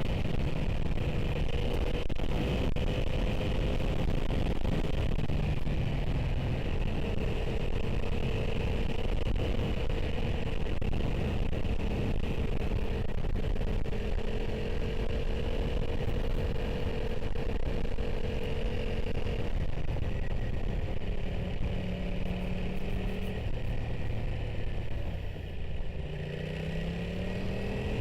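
Motorcycle engine running at a steady cruise, heard from a helmet camera under heavy wind and road noise. Near the end the engine eases briefly, then its pitch climbs as the bike accelerates.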